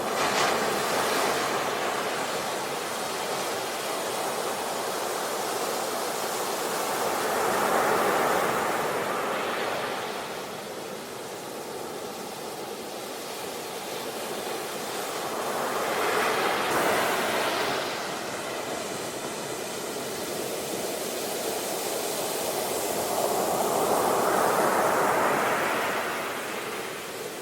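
Sea waves breaking and washing on a shore, each wave swelling up and falling away about every eight seconds, four surges in all.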